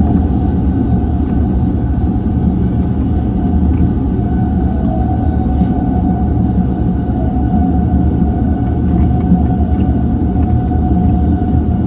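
E235 series electric train running on the rails, heard from on board: a steady wheel-and-rail rumble with a steady whine over it.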